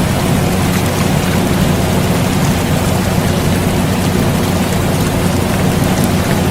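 Steady rain noise blended with the constant low hum of an air conditioner, even and unbroken throughout.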